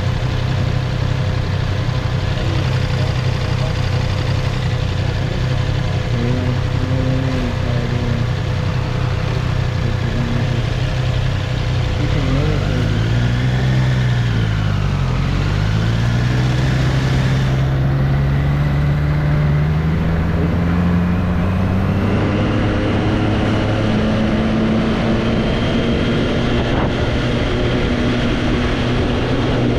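2024 Triumph Street Triple's three-cylinder engine idling, blipped once about halfway through with a quick rise and fall in pitch, then pulling away as the pitch climbs slowly and holds steady.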